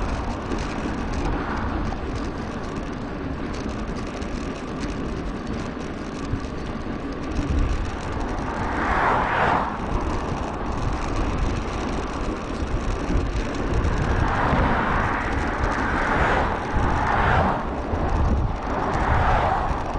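Wind rushing over an action camera's microphone on a moving bicycle, with a low rumble from the ride. Louder swells about nine seconds in and several more in the last third.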